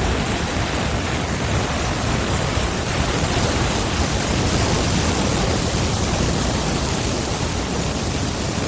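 Floodwater rushing: a loud, steady, even wash of noise that does not change.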